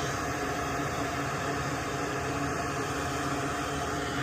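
Steady hiss of a small fan-driven machine blowing air, with a faint even hum underneath.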